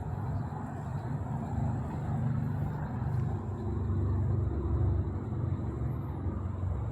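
A low, steady rumble that swells in the middle and eases near the end, with a brief faint high chirp about six seconds in.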